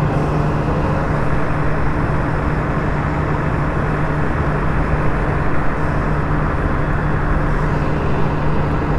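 Petrol pump fuel dispenser running as petrol is pumped into a motorcycle's tank: a steady low hum over a constant rushing noise.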